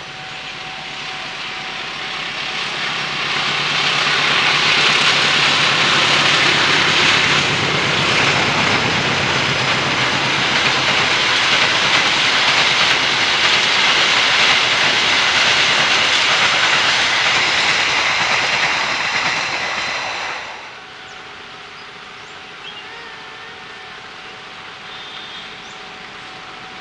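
A train passing close by on the rails. Its wheel and track noise builds over the first few seconds, stays loud for about fifteen seconds, then drops away abruptly about twenty seconds in.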